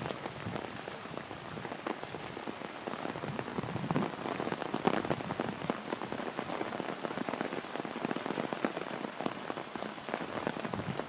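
Steady rain falling, with many separate drops striking close by in an irregular patter.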